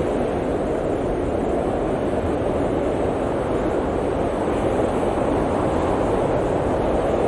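Blizzard wind blowing as a steady, dense rushing noise, strongest in the low and middle range, with no gusts or breaks.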